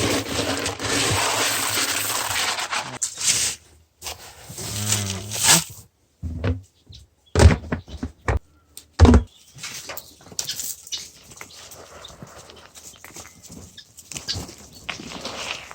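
Farm-bird feeding noises: a loud rustling rush for the first few seconds, a short low call with a falling pitch about five seconds in, then a few sharp knocks and quieter scattered rustling.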